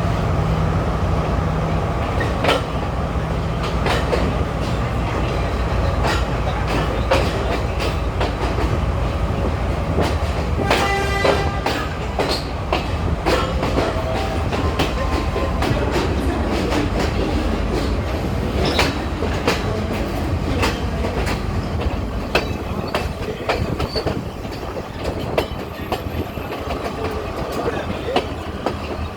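Class S12 diesel multiple unit passing slowly, its diesel engine humming low while the wheels click over the rail joints in an uneven clickety-clack. The engine hum fades after the first third, and a short pitched tone sounds about eleven seconds in.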